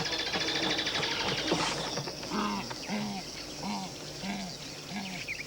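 Ground hornbill giving a run of deep booming notes, about two a second, starting about two seconds in. Insects make a fast pulsing high buzz over the first two seconds.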